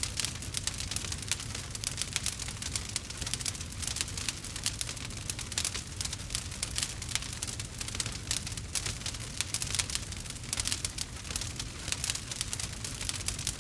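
Wood fire crackling: a dense, continuous run of small sharp pops over a steady low rumble.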